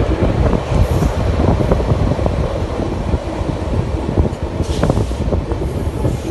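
Passenger train running along the line: a steady loud rumble with the rapid clatter of wheels over the rails.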